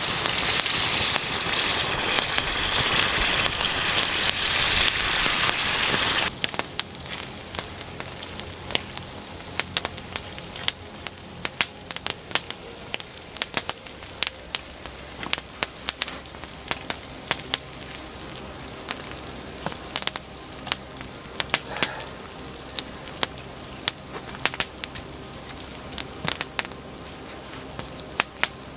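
A loud, steady hiss for about the first six seconds, cut off abruptly. Then a wood campfire crackling with sharp, irregular pops over a quieter background.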